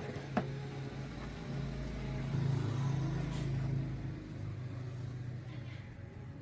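A motor or engine running with a steady low hum that swells from about two seconds in and eases off after about four seconds, with one sharp click under half a second in.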